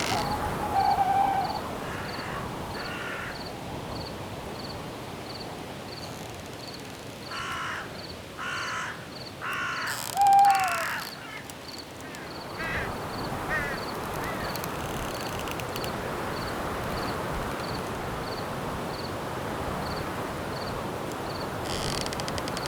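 A crow cawing, several harsh calls in a row, over night crickets chirping at an even pace of roughly one and a half chirps a second. Wind in the trees makes a steady rush that grows after the calls.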